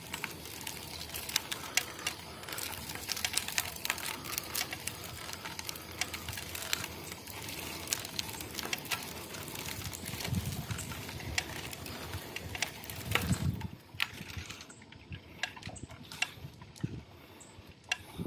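Boardman SLS 9.8 road bike making its weird noise: many rapid, irregular clicks over a steady hiss. After about 14 seconds the clicks thin out and the bike grows quieter.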